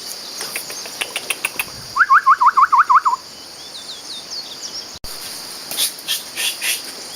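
A bird calls a fast run of about ten sharp, rising notes lasting about a second, over a steady high insect buzz and scattered short chirps.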